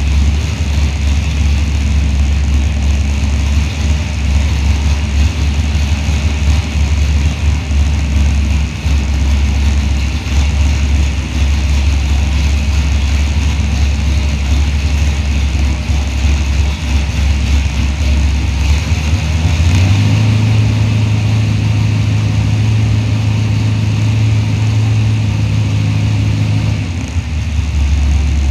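Chevrolet small-block 350 V8 running at a steady idle, then brought up to a higher speed about two-thirds of the way in and held there for about seven seconds before dropping back to idle.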